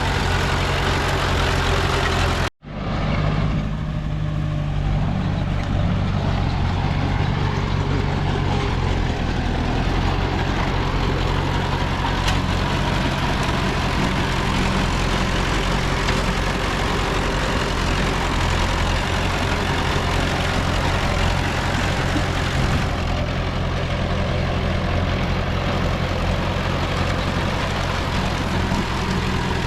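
Heavy-equipment diesel engine running steadily under a low, even drone. The sound cuts out abruptly for a split second about two and a half seconds in.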